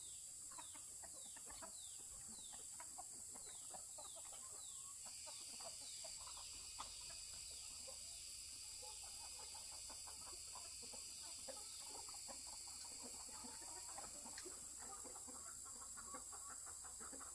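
Chickens clucking, with a quick series of high, falling peeps in the first few seconds, over a steady high hiss.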